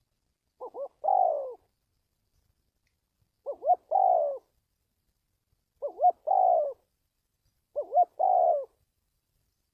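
Spotted dove cooing: four calls, about two and a half seconds apart, each two short notes followed by a longer coo that falls away at the end.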